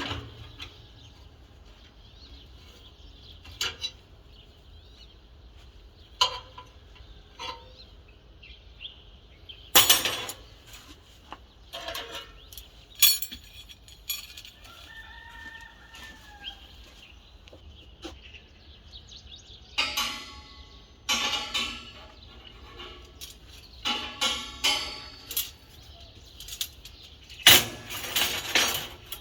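Intermittent metal knocks and clinks of steel pieces being handled and tapped, some ringing briefly, with a few longer scraping passages in the second half. A rooster crows faintly about halfway through.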